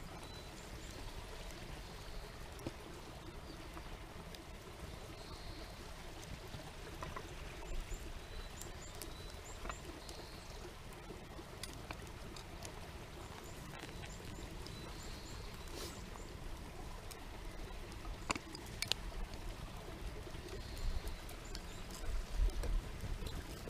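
Steady flowing water like a stream, with a few sharp clicks in the second half and a faint high call that repeats about every five seconds.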